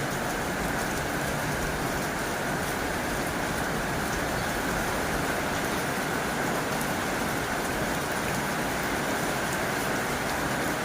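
Heavy rain drumming steadily on a tin roof, a dense even patter with no let-up.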